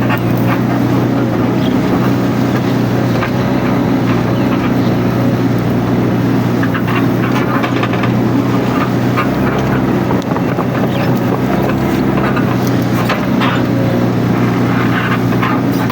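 Mini excavator engine running steadily under work, with scattered short clicks and crackles over it.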